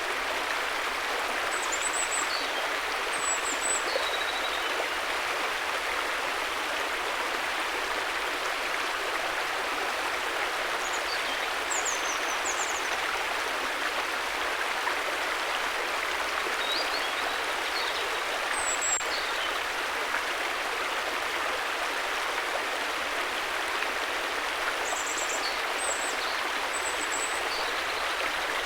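River water running in a steady, even rush, with faint high chirps a few times over it.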